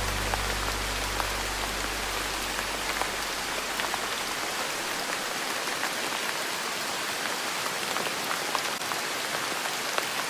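Steady rain falling on a surface, an even hiss dotted with the ticks of individual drops. A low music note dies away over the first few seconds.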